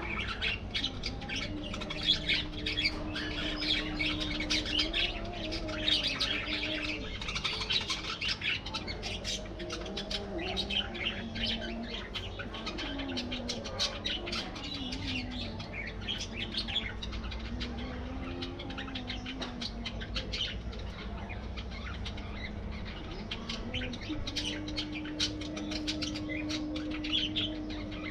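A flock of budgerigars chirping and chattering non-stop in an aviary, a dense overlapping mass of quick high chirps and squawks. A lower held tone runs underneath and bends in pitch now and then.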